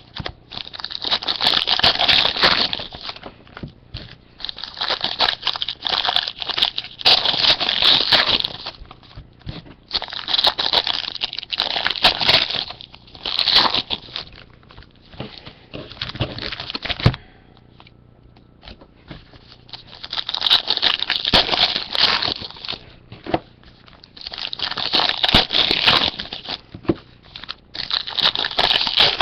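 Plastic wrapping on sealed trading-card boxes or packs being torn open and crinkled, in bursts of two to four seconds with short pauses between them.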